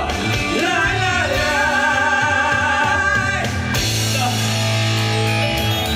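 Live rock band with singers holding a long final sung note with vibrato over the band. About three and a half seconds in the voices stop and the band's held chord rings on.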